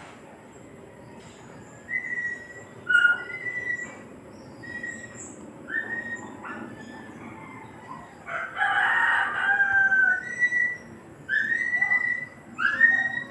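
Birds calling: a string of short chirping and whistled calls, some falling in pitch, with one longer, louder call about eight and a half seconds in that lasts over a second.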